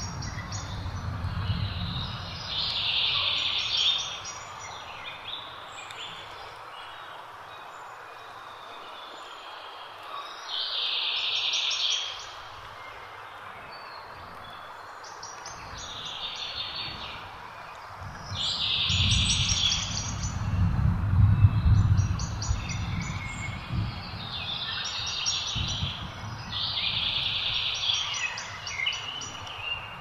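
A songbird repeating a short, high-pitched song phrase about every few seconds over a steady outdoor hiss, with a low rumble now and then.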